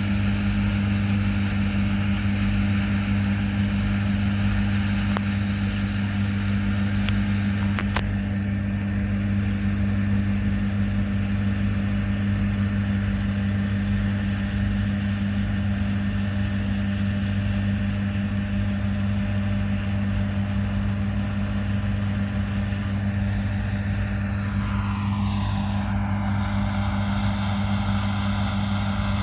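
Large diesel engine of John Deere harvest machinery running at a steady speed, a constant deep drone. Near the end a higher whine sweeps down in pitch and then climbs.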